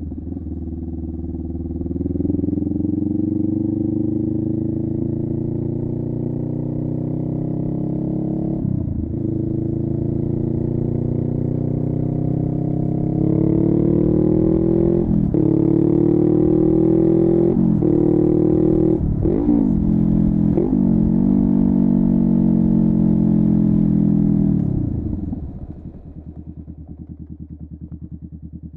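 Honda Rebel 500's parallel-twin engine through a Vance and Hines upsweep exhaust, pulling away from idle and accelerating, its note climbing steadily with short dips at gear changes. A cluster of quick drops and recoveries in pitch follows, then the throttle closes about 25 s in and it settles back to idle.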